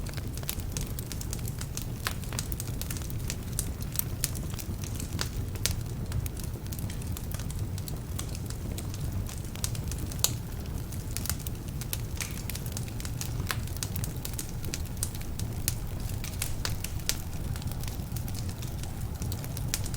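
Wood fire burning in a fireplace: a steady low rumble of flames with frequent irregular crackles and pops from the burning logs, some of which are damp.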